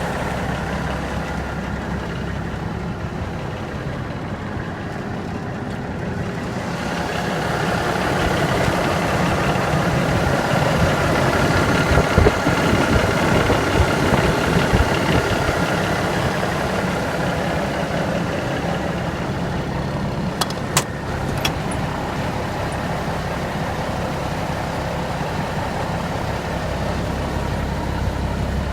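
A 1984 International S 2200 truck's 400 Cummins diesel idles steadily. It grows louder from about a quarter of the way in and settles back after the middle. A couple of sharp clicks come about two-thirds of the way through.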